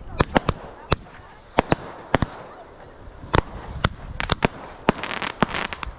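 Fireworks going off in an uneven run of sharp bangs, some in quick pairs, with a short burst of crackling about five seconds in.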